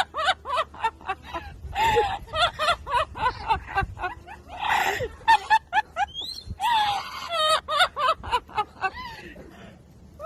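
A parrot chattering in a rapid string of short high calls and squawks, many of them quick whistled glides up and down in pitch.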